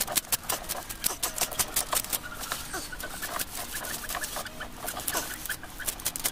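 Chickens clucking, their short falling calls mixed with a fast, irregular run of sharp clicks or taps.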